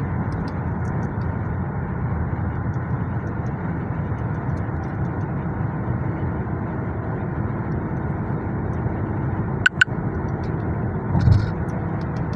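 Steady road and engine noise inside a moving car, a low even rumble. Two sharp clicks close together about ten seconds in, and a brief low bump shortly after.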